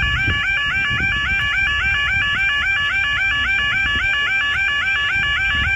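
Level crossing warning alarms sounding: an electronic yodel alarm repeating a rising, held tone about four to five times a second, with a second, lower-pitched alarm going at the same time. The alarm has changed tone, its higher notes pitched higher than before.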